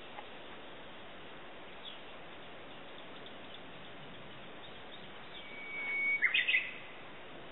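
A bird calls about six seconds in: a held whistled note, then a few quick downward-sliding notes, the loudest sound here. Fainter chirps come earlier over a steady outdoor hiss.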